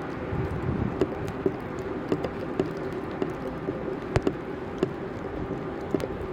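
Footsteps in snow at a steady walking pace, about two steps a second, over a steady hum of city street noise.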